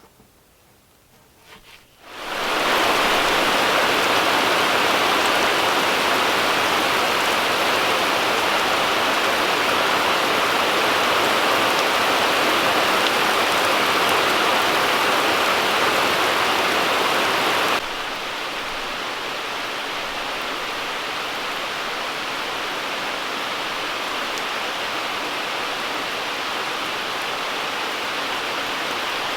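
Steady rushing noise of falling or running water, such as rain or a stream, cutting in abruptly about two seconds in and dropping suddenly to a quieter level a little past halfway.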